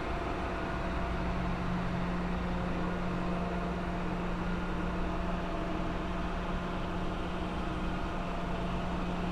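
Ship engine-room machinery running steadily, in the space housing the centrifugal oil purifiers: an unbroken drone with a strong low hum and a fainter, higher steady whine above it.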